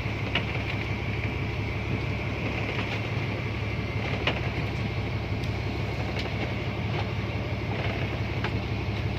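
Steady engine drone with a low hum and an even rushing noise over it, and a few faint clicks scattered through it.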